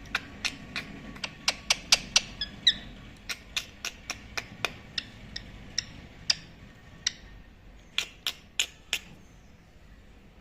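A run of short, sharp clicks at an irregular pace, about two or three a second, coming faster in the first half and thinning out later, with a brief high chirp about two and a half seconds in.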